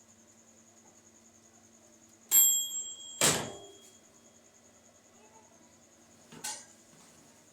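Microwave oven beeping as its cooking cycle ends, with part of its low hum stopping at the beep. The door latch clacks open just under a second later, and a lighter knock follows about three seconds after that.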